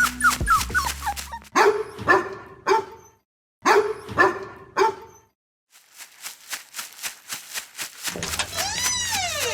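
Dog barking in two quick bursts of several barks each, then faint rhythmic ticking, with a horse's whinny beginning near the end.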